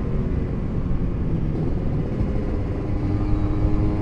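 Steady wind rumble on a helmet-mounted microphone while riding a motorcycle, with the engine running underneath.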